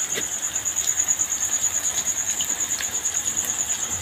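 Oil sizzling in a wok as a noodle-and-egg omelet fries on a gas stove, an even rain-like hiss. A high, fast-pulsing trill runs steadily through it.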